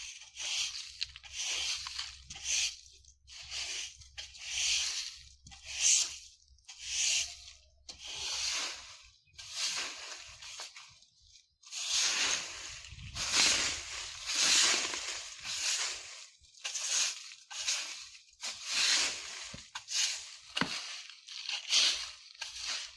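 Broom sweeping leaves, rustling in repeated strokes about one a second, with a brief pause about halfway through.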